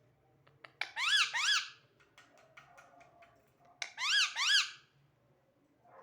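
Parrot giving short squeaky calls in two pairs about three seconds apart, each call sweeping up and back down in pitch.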